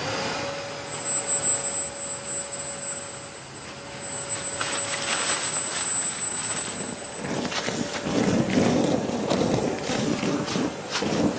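Kärcher multi-purpose wet-and-dry vacuum running in blower mode, a steady rushing of air with a motor whine. The sound grows rougher and louder about eight seconds in.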